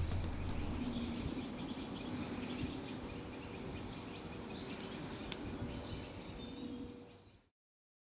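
Quiet woodland ambience with small birds chirping now and then, fading and dropping to silence about seven and a half seconds in.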